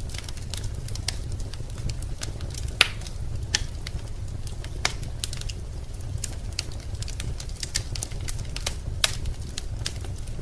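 Wood fire crackling in a fireplace: irregular sharp pops and snaps over a steady low rumble, with louder pops about three seconds in and near nine seconds.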